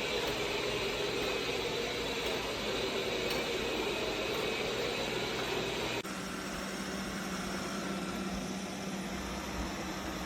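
Roborock Q5 Pro robot vacuum running with a steady whirring noise. About six seconds in the sound changes abruptly to a slightly quieter run with a steady low hum.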